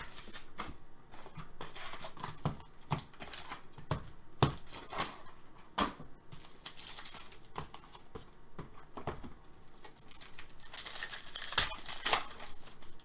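Trading-card packs being torn open and their wrappers crinkling, with short clicks and rustles as cards are handled. A longer, louder stretch of tearing and crinkling comes near the end.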